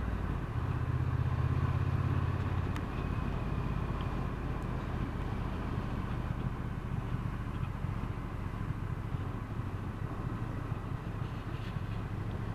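Triumph Bonneville T120 parallel-twin engine running on the move, heard with wind and road noise. Its low steady note is strongest for the first couple of seconds, then eases to a rougher, slightly quieter rumble.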